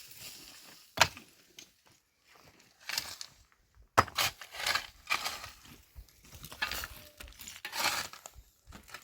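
Irregular rustling and scraping noises, with two sharp knocks about a second and four seconds in.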